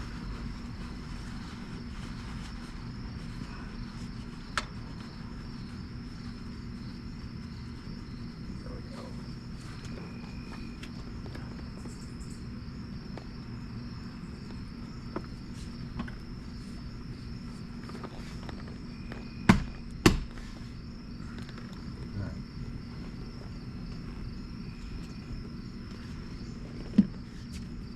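Steady background hum with a faint, even, high trill, broken now and then by sharp clicks and knocks. The loudest are two in quick succession about twenty seconds in.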